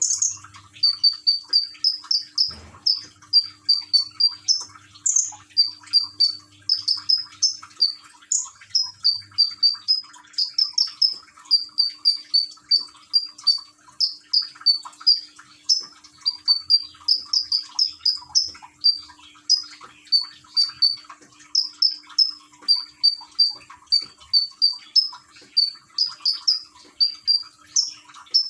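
A konin songbird chirping continuously in rapid runs of short, high notes. Faint trickling water runs beneath it.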